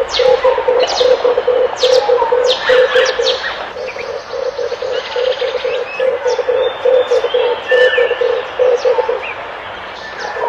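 Red turtle dove cooing in two long runs of rapid, low, pulsed notes, with a short break about four seconds in. Other small birds chirp high in the background.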